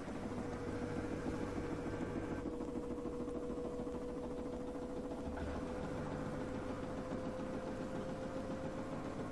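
LG direct-drive washing machine spinning: a steady hum with a motor whine that slowly rises in pitch as the drum gathers speed.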